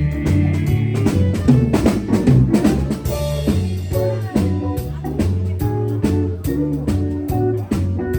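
Live country band playing an instrumental passage without vocals: a steady drum-kit beat with rimshots, electric bass, and a lead guitar line on top.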